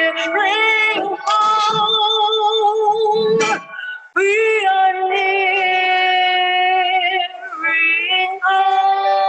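A hymn sung over backing music, the voice holding long, wavering notes, with a short break about four seconds in.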